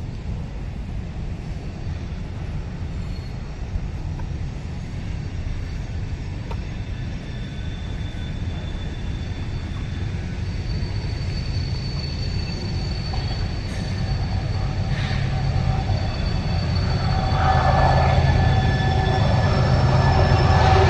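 Train running on rails: a steady low rumble that grows louder, with thin high wheel-squeal tones coming in about halfway through and getting stronger near the end.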